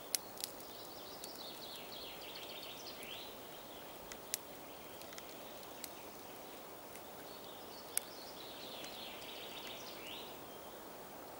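A songbird singing the same short song twice, each about two seconds of quick notes falling in pitch and ending in a brief upward flourish, over a steady outdoor hiss. A few sharp clicks are heard in between.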